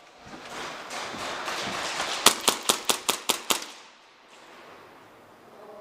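Airsoft gun firing a quick string of about seven shots, roughly five a second, over a steady hiss; the shooting stops after a second and a half.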